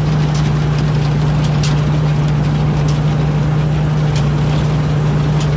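Rice combine harvester's engine running steadily under load with a constant low hum, with a few faint ticks and rattles over it.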